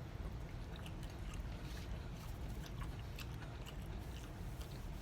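A man chewing spicy chicken wings: scattered small clicks and smacks of eating over a low steady hum.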